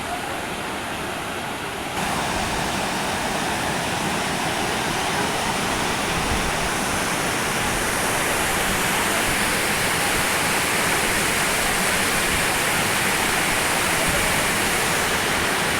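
Waterfall water rushing in a steady noise, which gets louder about two seconds in.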